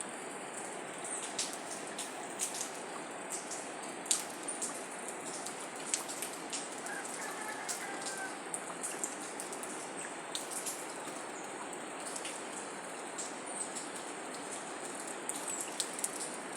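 Steady rushing of water with scattered sharp, drip-like ticks. A faint, brief bird call sounds about seven seconds in.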